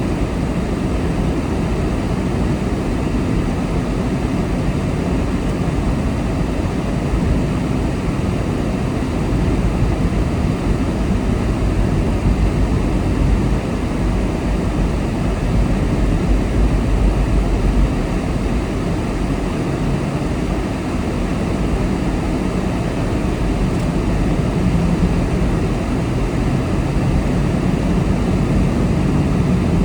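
A car driving along the road: a steady low rumble of engine and road noise with tyre hiss over it, swelling and easing slightly.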